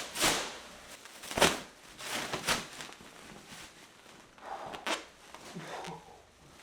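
Plastic packaging of a foam mattress being pulled and torn open: a run of short, irregular crinkling and tearing noises, the loudest about a second and a half in.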